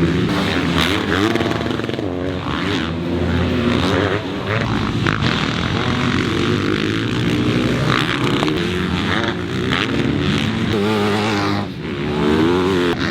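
Motocross dirt bike engines revving and accelerating, their pitch rising and falling again and again as several bikes run together.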